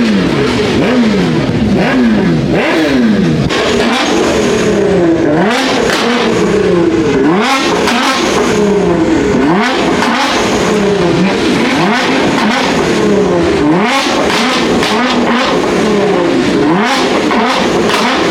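Car engines revved over and over, the pitch sweeping up and falling back roughly once a second, with revs from more than one engine overlapping.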